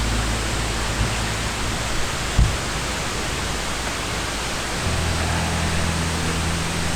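A steady, even hiss under soft background music with low sustained notes, and a single dull thump about two and a half seconds in.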